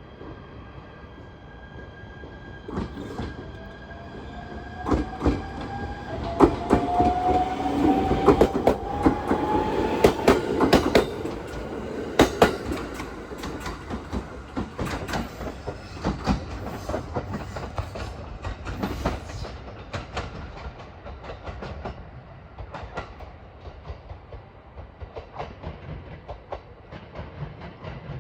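A train running with clickety-clack over the rail joints, a whine rising steadily in pitch as it gathers speed over the first ten seconds; the sound is loudest around then and eases off afterwards.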